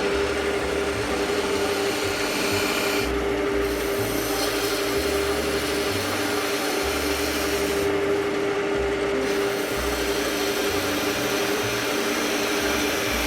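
Wood lathe running with a steady hum while a skew chisel cuts a bead in the spinning wood, a scraping, shaving noise over the motor. The cutting eases off twice briefly, about three seconds in and again about eight seconds in.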